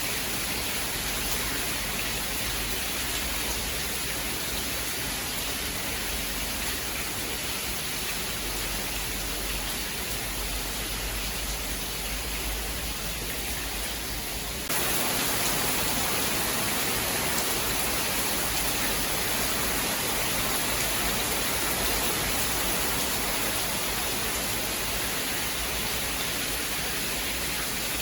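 Steady rain, a continuous even hiss. About halfway through, the sound changes abruptly to a brighter, slightly louder hiss with less low rumble.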